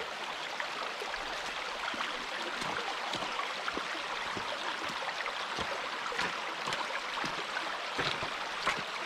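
Fast-flowing river water rushing over stones: a steady rush with many small splashes throughout.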